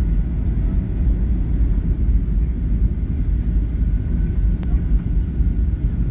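Steady low rumble of an airliner during landing, with a faint steady whine coming in about two-thirds of the way through.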